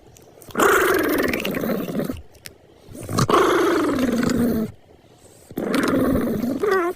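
An animal calling three times, each call long and drawn out and sliding down in pitch, with short pauses between them.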